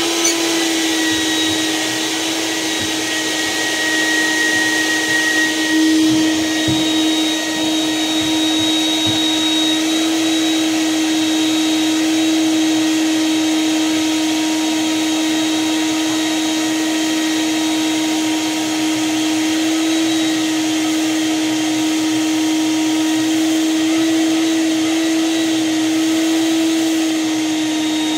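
Shop vac running steadily, sucking ashes out of a wood stove's firebox, with a steady hum over a rushing of air and a few faint low knocks in the first third.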